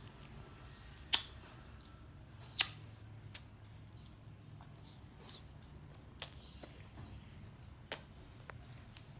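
Scattered sharp mouth clicks and smacks of chewing pieces of orange, a few seconds apart, over a low steady hum.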